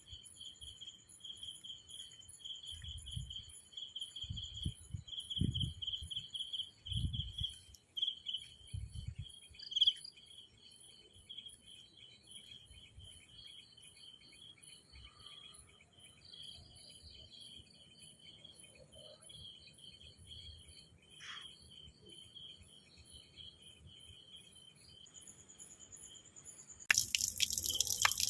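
Insects trilling steadily in rapid high pulses, with a few low thumps in the first several seconds. Near the end a loud rushing, hissing noise cuts in suddenly and drowns the trill.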